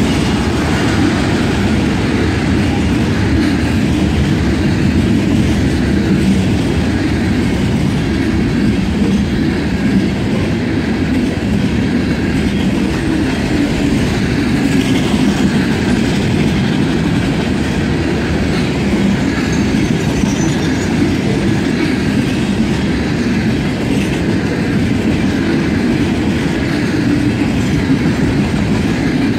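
Freight train of boxcars and covered hopper cars rolling past at close range, steel wheels running on the rails in a steady, unbroken noise with most of its weight low.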